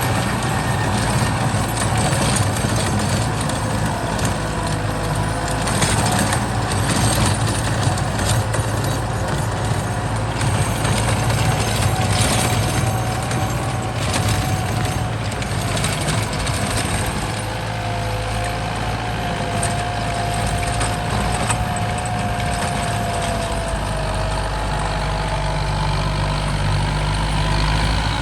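Kubota M8540 tractor's four-cylinder turbo diesel engine running steadily under load while plowing, with a faint whine that wavers slightly in pitch.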